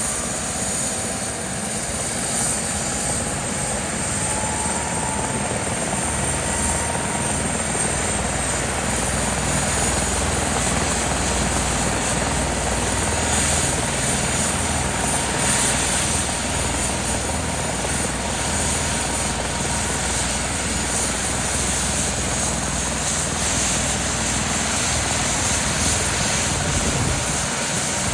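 Airbus EC145T2 helicopter running steadily: the whine of its twin turboshaft engines over rotor noise and a low pulsing rumble. The whine rises slightly in pitch in the first few seconds, then holds.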